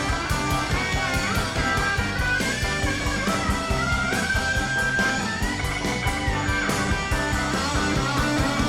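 Live Tex-Mex rock band playing an instrumental break: a lead guitar line with bending notes over bass and drums.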